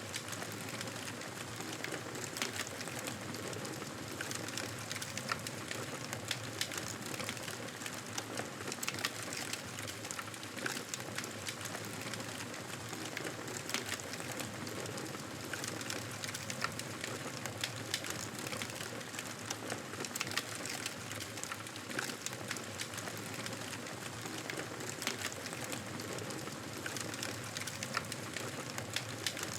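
Wood fire crackling steadily, a continuous hiss with frequent small pops and snaps scattered throughout.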